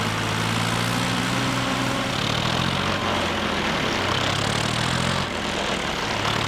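Tractor engine running steadily with a low, even drone, dipping briefly about five seconds in.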